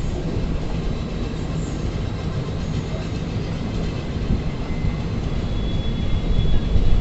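A train running along the track: a steady low rumble of wheels and carriages, growing louder about six seconds in.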